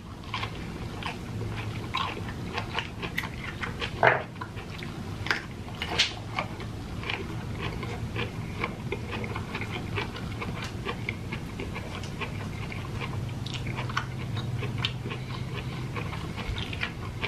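Close-miked chewing of ripe jackfruit: a run of small, irregular wet smacks and clicks from the mouth.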